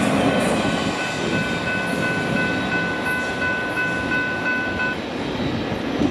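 Double-stack intermodal freight train rolling past on the rails as its last cars go by, a steady rumbling noise. A steady high tone sounds over it from about a second in and cuts off sharply at about five seconds.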